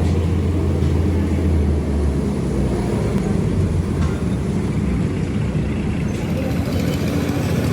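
A heavy truck's engine running steadily, with a strong low hum for the first two seconds that then eases into a rougher, even rumble.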